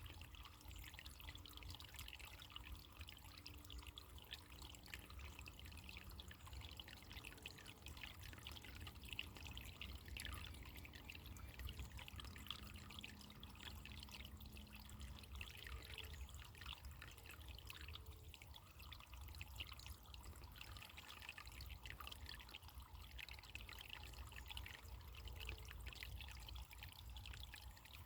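Faint running water, a small stream trickling and splashing steadily.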